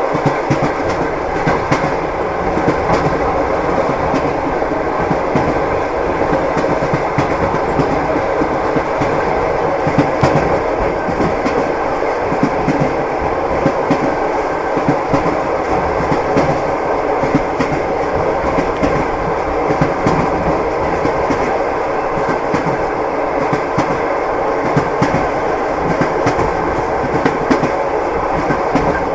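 Passenger train wheels clattering over the rail joints, heard from inside a compartment: a steady rumble with frequent clicks and knocks.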